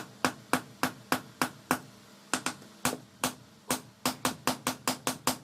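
Hand hammer striking steel on an anvil in a run of sharp, ringing blows, forging a dao blade from car leaf-spring steel. The blows come about three a second, pause briefly about two seconds in, then quicken to about five a second.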